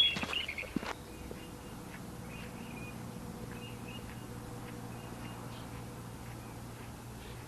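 Footsteps on a trail with a sharp squeak during the first second, then the steps stop. After that, faint short bird chirps repeat over a steady low outdoor hum.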